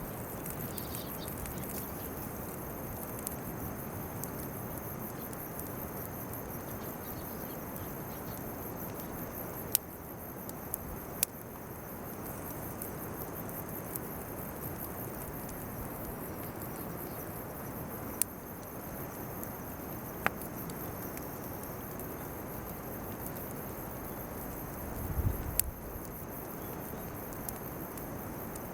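Insects chirping steadily in a high pulsing chorus over the low hiss of a bonfire of weeds and chestnut burrs. A handful of sharp single pops from the fire stand out, the loudest about ten seconds in.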